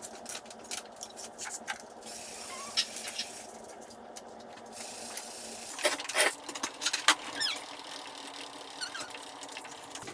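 Handling noises from unpacking and assembling a thickness planer: scattered clicks and knocks, a stretch of rustling near the start, a louder cluster of knocks about six seconds in, and a few short squeaks.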